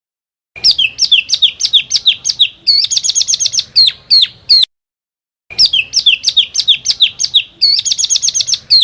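Small songbird's rapid 'tembakan' burst song, recorded: a run of quick downward-sweeping high notes, a fast trill, then a few more sweeps. The same phrase plays twice with a dead-silent gap between, as a looped recording.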